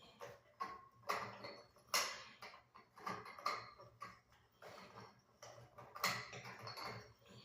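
Irregular clicks, knocks and rustling from hands handling ceiling fan parts and hardware, with sharper knocks about one, two and six seconds in.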